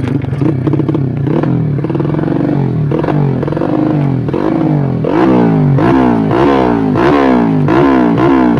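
Modified Yamaha Jupiter Z 130cc underbone motorcycle's single-cylinder engine running with its pitch repeatedly climbing and dropping back, about twice a second. It grows louder about halfway through.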